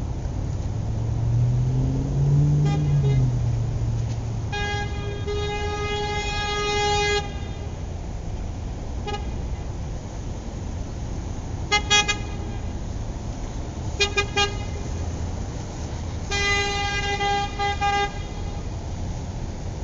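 Road traffic with car horns honking over a steady engine rumble. There is one long honk about five seconds in, short toots near the middle, and another long honk near the end.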